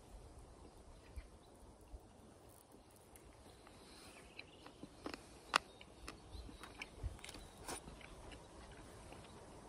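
A person chewing food close to the microphone: soft mouth smacks and wet clicks over a faint steady background, thickest in the second half, the sharpest click a little past the middle.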